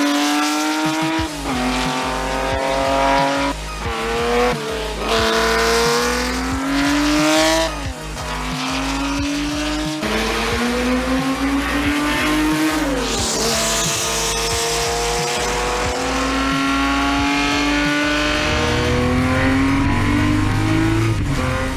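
Race car engine accelerating hard through the gears. Its pitch climbs steadily and drops sharply at each upshift, many times over.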